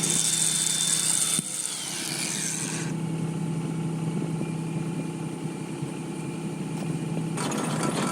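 A steady low motor hum under a hiss, which drops away about three seconds in and comes back near the end.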